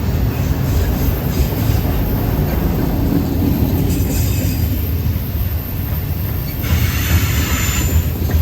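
Norfolk Southern freight train passing with a steady low rumble of cars on the rails; wheels squeal briefly around four seconds in and again, louder, for about a second and a half near the end.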